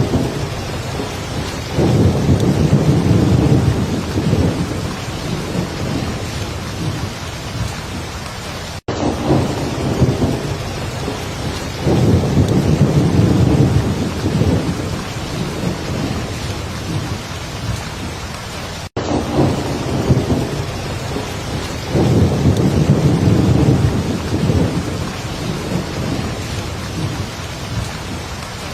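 Heavy rain falling steadily, with a low roll of thunder rumbling up three times, about ten seconds apart, each fading slowly. The sound cuts out for an instant twice, where the recording loops.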